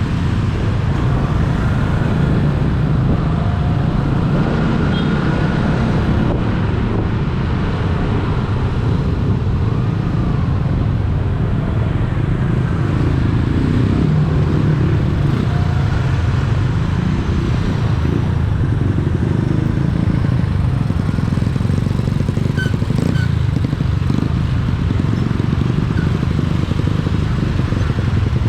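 Steady road-travel noise of a ride through traffic: a continuous low wind rumble on the microphone mixed with vehicle engines running.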